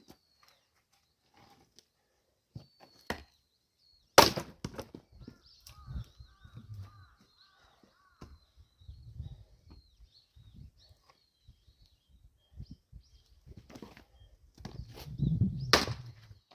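Axe splitting walnut firewood: two sharp strikes, about four seconds in and near the end, with lighter wooden knocks and thuds between. Faint birdsong chirps along.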